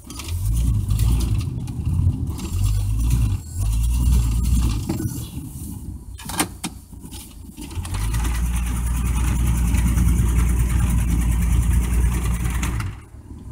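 Worn 300 cubic-inch inline-six of a 1985 Ford F-150 working under load, pushing a snow plow through deep snow. It pulls in surges, eases off with a couple of sharp knocks about halfway, then pulls hard and steady until just before the end.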